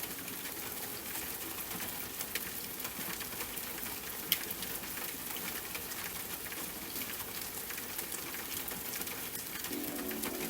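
Steady rain falling, an even hiss scattered with sharp drips and drop ticks, one a little louder about four seconds in. Soft sustained music comes back in near the end.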